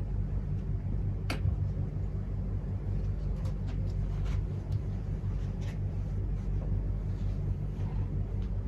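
Steady low hum of room background noise, with a few light clicks and knocks, one a little sharper about a second in.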